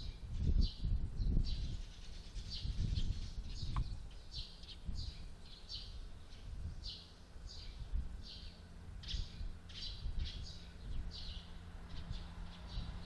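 Small birds chirping repeatedly in quick, short calls, over a low rumble that is strongest in the first couple of seconds. A faint steady low hum comes in about two-thirds of the way through.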